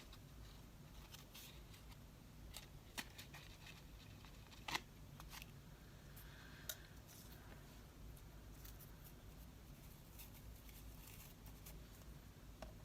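Faint, scattered clicks and taps of small craft tools and paper being handled, the sharpest about halfway through, over quiet room tone.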